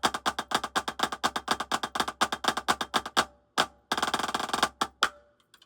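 Drumsticks playing a fast, even run of strokes in a Herta breakdown exercise, then a single stroke, a short roll-like burst, and two final strokes. A nearby drum kit and its cymbals ring in sympathy, adding reverb and a low hum under the strokes.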